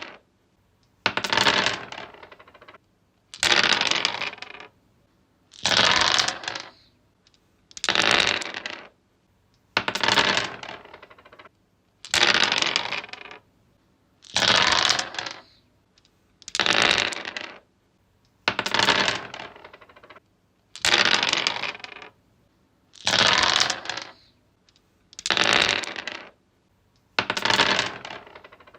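Dice rolled onto a wooden surface, clattering and rattling to a stop, again and again: about thirteen separate rolls, one roughly every two seconds, each starting sharply and dying away over a second or so.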